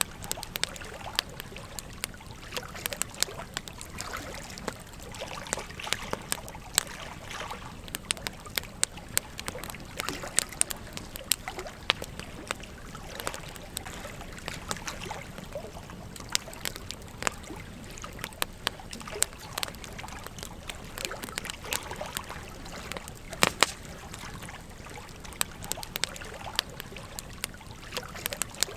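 Campfire crackling with frequent irregular sharp pops and snaps, over the steady rush of a gently flowing stream.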